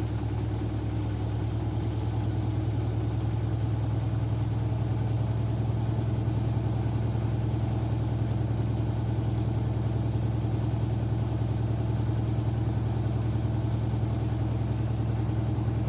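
Arçelik 9123 N front-loading washing machine in its spin cycle, a steady low hum that builds slightly over the first few seconds; the spin is unbalanced.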